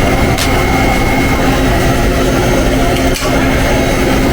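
Steady loud machine roar with a constant high whine, broken by two short clicks, one about half a second in and one near the end.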